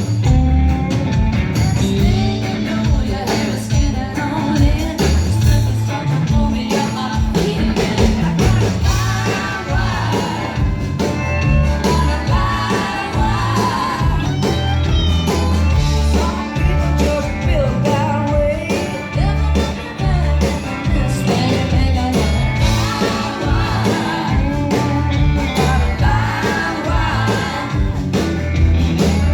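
A live band playing a rock song with singing over a steady drum beat and bass line.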